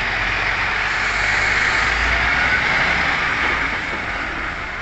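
Heavy truck's diesel engine running close by, a low rumble that swells about two seconds in and then eases off.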